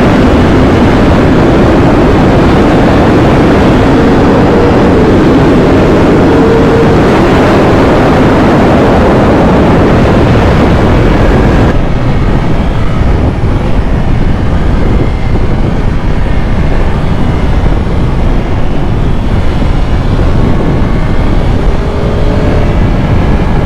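Motorcycle being ridden at speed: the engine runs under a loud, steady rushing noise, and the hiss eases about twelve seconds in.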